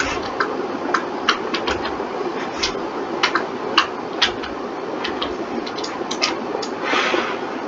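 Computer keyboard and mouse clicks, irregular and a few a second, over a steady hum, with a brief longer rustle about seven seconds in.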